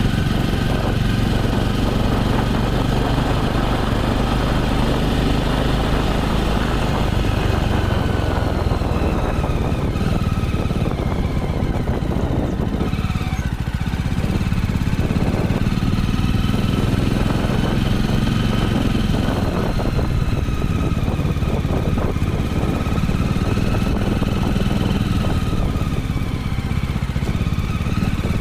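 Jawa motorcycle's single-cylinder engine running steadily, its speed dipping briefly and picking up again about halfway through.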